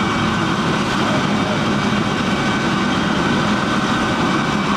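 Helicopter running on the ground before take-off: a steady turbine whine over the fast, even beat of the spinning rotor.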